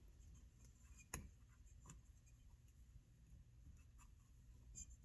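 Near silence with a few faint clicks from chainsaw parts being handled during reassembly; the clearest click comes about a second in.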